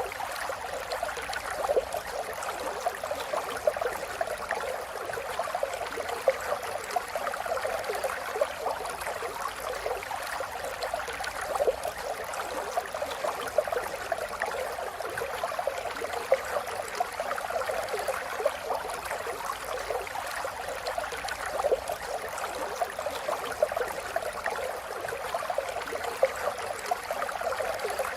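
River water flowing and babbling steadily over stones, a continuous rushing with many small splashes and gurgles.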